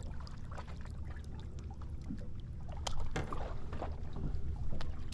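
Water lapping against a drifting fishing boat's hull over a steady low rumble, with occasional light knocks.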